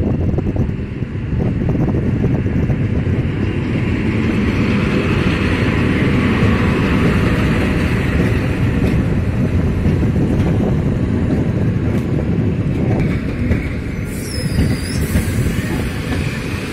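EP07 electric locomotive and its string of passenger coaches rolling past along the platform: a loud, steady rumble of wheels on rails, with a few sharp clicks.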